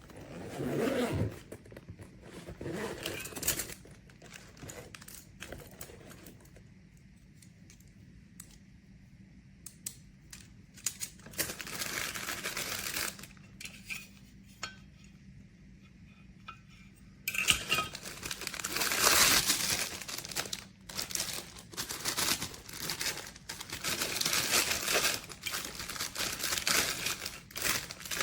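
Handling noise: the plastic parts and packaging of a hair dryer brush kit being moved about, with irregular clicks, knocks and bursts of crinkling and rustling. The noisiest stretches come about twelve seconds in and again from about seventeen seconds on.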